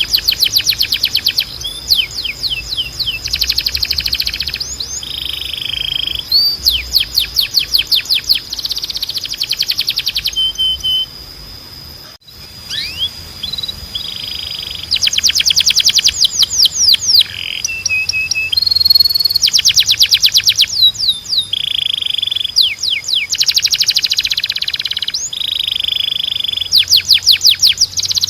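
Timbrado canary singing a long song of rapid trills, each run of fast repeated notes lasting about a second, alternating with short steady whistled notes and quick upslurs. About twelve seconds in, the song breaks off for a moment, then resumes. A thin steady high tone runs underneath.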